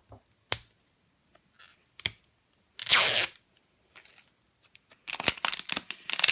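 Plastic toy packaging handled by hand: a few small clicks, a short rip about three seconds in, then dense crinkling from about five seconds.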